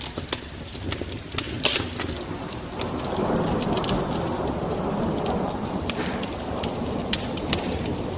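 Wood fire crackling with frequent sharp pops, joined about three seconds in by a rolling rumble of thunder over rain that then holds steady.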